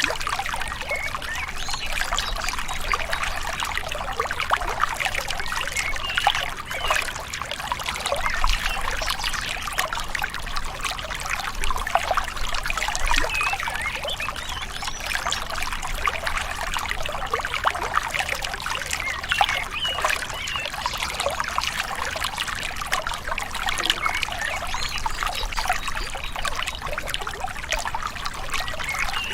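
Gentle river water babbling and trickling steadily, with small bubbling splashes throughout.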